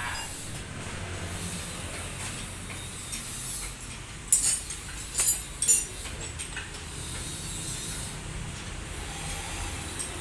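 A few sharp metallic clinks, spaced over a couple of seconds about four seconds in, over a steady low workshop hum.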